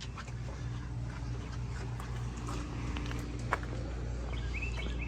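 Racing pigeon moving about on the loft's landing board and trap: scattered light taps and clicks, one sharper click about three and a half seconds in, over a steady low rumble. Short high chirps come near the end.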